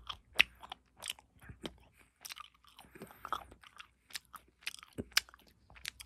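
Close-miked chewing of vanilla ice cream: irregular wet crunching and sharp mouth clicks, several a second.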